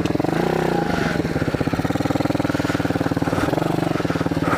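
Small single-cylinder pit bike engine running at low revs with fast, even firing pulses, blipped up and back down once in the first second and more lightly about three and a half seconds in.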